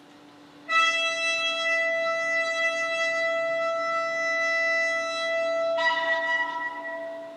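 Shofar blast played from a recording: one long, bright held note lasting about five seconds, which then breaks upward into a higher, rougher note and fades out near the end.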